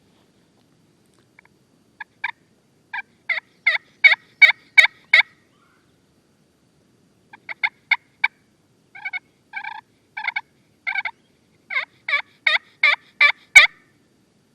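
Turkey yelping, hen-style: runs of short, clear yelps, about three a second, each run building in loudness, loud and close.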